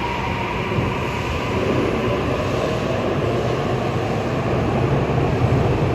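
Tokyu Ikegami Line electric train running through the underground station: a steady rumble of wheels and motors that grows slightly louder and deeper toward the end.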